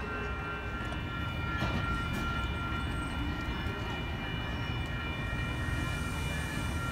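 North County Transit District Coaster bilevel commuter train rolling slowly past: a steady low rumble with a faint steady whine over it.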